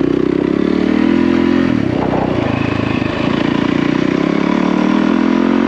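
Yamaha WR450F enduro dirt bike's single-cylinder four-stroke engine under way, its pitch climbing, dropping sharply about two seconds in as the throttle is eased or a gear changed, then climbing and holding again.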